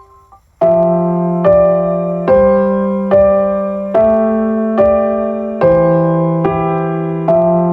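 Background music: a piano plays slow, evenly spaced chords, one a little under every second, each struck and left to fade, starting after a brief pause at the beginning.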